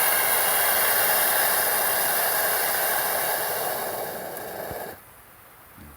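A loud, steady hiss that eases off and then cuts off suddenly about five seconds in.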